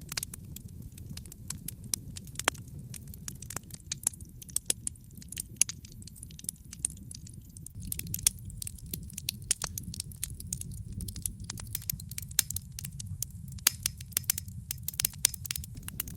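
Wood fire crackling in a fireplace: a steady low rumble of burning with many sharp, irregular pops and snaps, busier in the second half.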